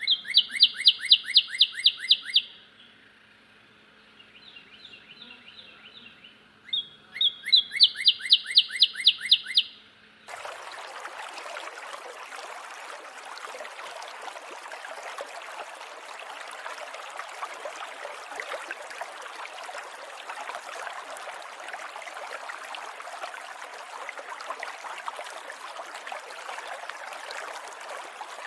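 A high chirping call, a fast run of about five sharp notes a second, heard twice with fainter chirps in between. About ten seconds in it cuts abruptly to a steady rushing noise like running water.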